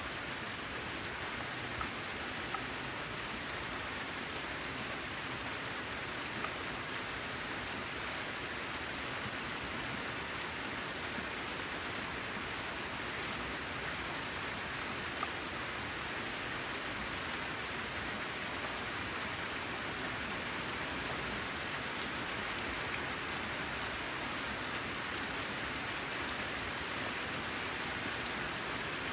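Steady rain falling on a corrugated zinc roof: a dense, even patter with an occasional sharper single drop.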